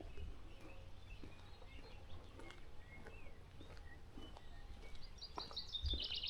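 Faint songbirds chirping, with short scattered calls. Near the end, one bird sings a quick trill of repeated short notes that falls in pitch.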